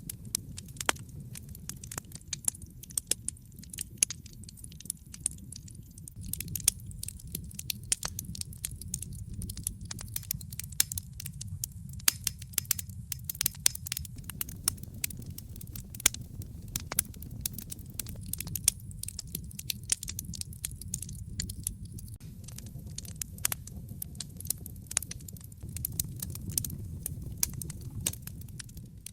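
Wood fire crackling in a fireplace: frequent sharp, irregular pops and snaps over a low, steady rumble of flames.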